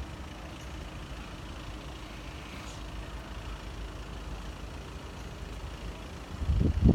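Steady low rumble of road traffic, with wind buffeting the microphone near the end.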